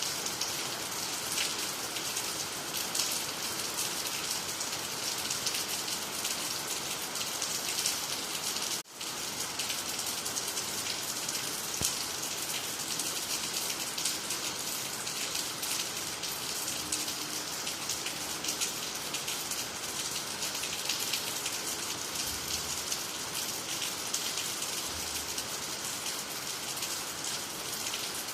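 Steady rain falling, with many fine drop ticks, on water, trees and the ground. The sound drops out for a split second about nine seconds in.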